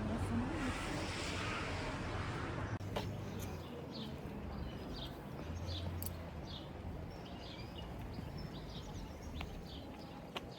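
A steady, even noise like traffic or outdoor ambience, then, after an abrupt change about three seconds in, small birds chirping repeatedly in short high notes over a faint background hiss.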